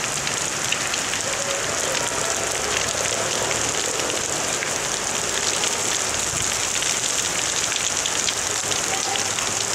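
Heavy rain falling steadily, a dense hiss of drops hitting the ground and hard surfaces.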